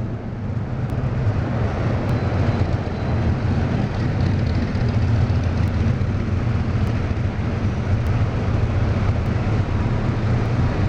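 Steady low road and traffic rumble heard while riding a bicycle along a street, with no distinct events.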